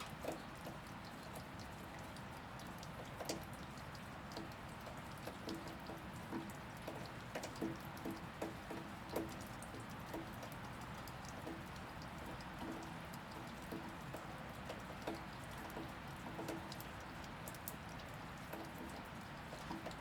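Steady rain falling, with single drops ticking irregularly on a surface, most thickly in the middle.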